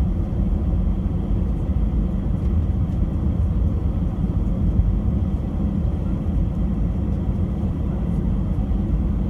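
Steady low rumble of an Airbus A319-100 heard from inside the passenger cabin: engine and airframe noise holding an even level throughout.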